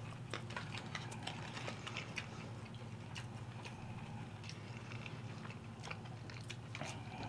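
Faint chewing and mouth sounds of people eating chicken nuggets, with scattered small clicks over a steady low hum.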